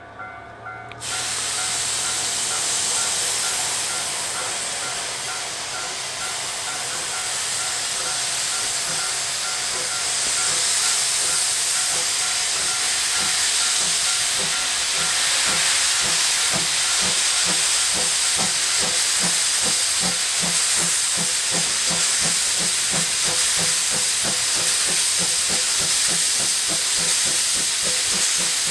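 Steam locomotive C12 66, a tank engine, hissing loudly with steam. The hiss starts suddenly about a second in. From the middle on, regular exhaust beats come through under it, a few a second.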